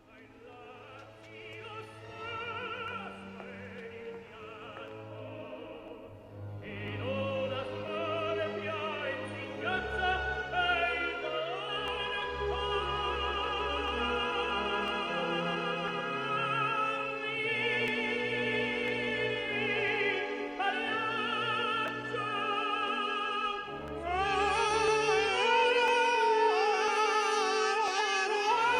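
Operatic singing with orchestral accompaniment: a voice with heavy vibrato over held orchestral chords, fading in from faint and growing louder, with a fuller swell near the end.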